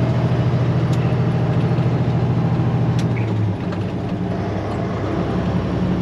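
Straight-piped diesel engine of a Peterbilt 379 semi truck running steadily under way. Its note steps down slightly about three and a half seconds in, and there are a couple of light clicks.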